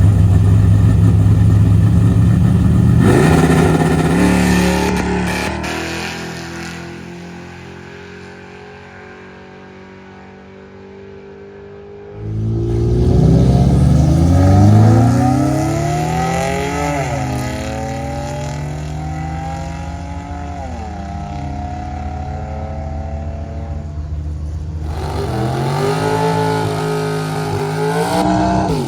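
Drag cars running at full throttle. One engine fades away after a few seconds. Then another launches hard, its pitch climbing and dropping back at each upshift as it accelerates down the strip, and a further climb comes near the end.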